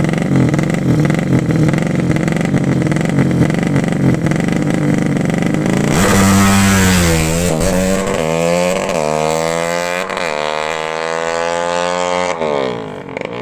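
200 cc racing motorcycle engine running steadily, then revved repeatedly from about halfway: its pitch rises and falls with each blip of the throttle, and it drops back near the end.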